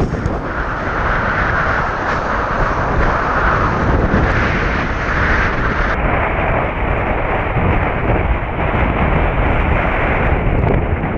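Strong storm wind buffeting the microphone: a loud, steady rushing noise.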